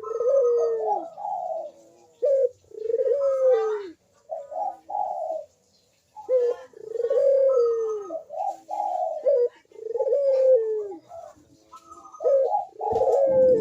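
Puter doves (domestic ringneck doves) cooing in repeated rolling phrases, each bending and falling in pitch, with short pauses between. This is the full perching call (manggung) used to coax quiet birds into calling. A brief rustling noise comes at the very end.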